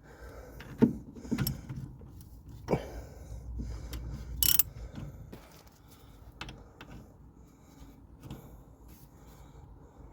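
Metal hand tools knocking and clinking against car suspension parts while a rusted front shock absorber is worked loose, with a short hiss about four and a half seconds in. The knocks are sharpest in the first three seconds, and only a few light clicks follow.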